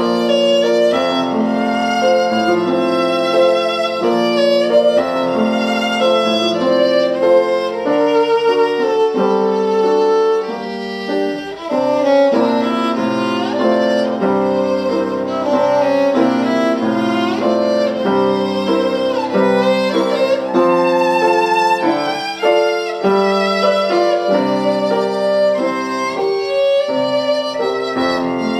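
Solo violin playing a classical melody with vibrato, in continuous bowed phrases.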